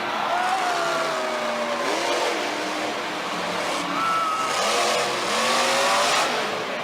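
Big monster truck engines revving hard, their pitch falling and rising again several times, over a steady rushing noise.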